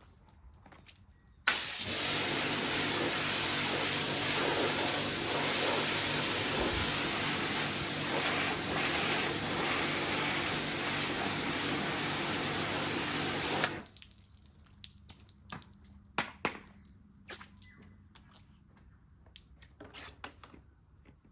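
Pressure washer spraying water onto a car for about twelve seconds, starting and stopping abruptly, with a steady motor hum under the spray. Afterwards water drips and there are a few small knocks.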